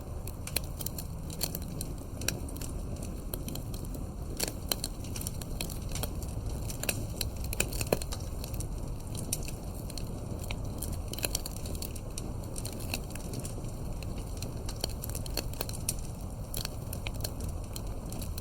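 Campfire wood crackling, with frequent irregular sharp pops and snaps over a steady low rumble.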